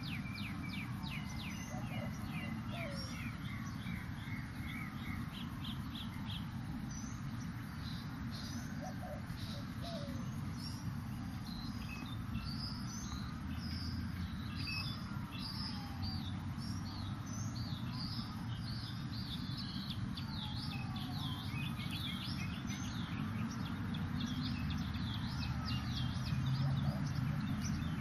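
Birds chirping and calling, with many short high chirps in quick runs, over a steady low rumble.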